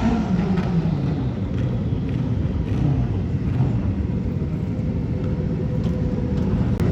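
Drag racing motorcycle engine, its pitch falling over the first second or so, then a steady low rumble of engines.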